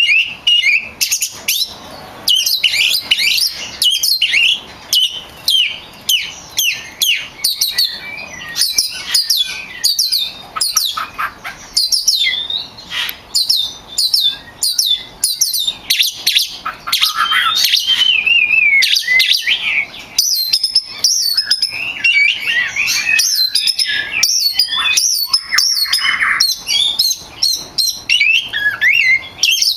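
Oriental magpie-robin (kacer) singing non-stop: a rapid, varied stream of whistled notes sweeping up and down, mixed with sharp clicking notes.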